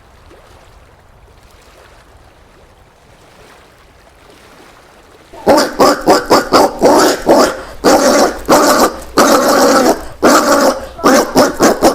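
Collared peccary calling: a rapid series of short, loud calls, several a second, that starts about five and a half seconds in after a quiet stretch.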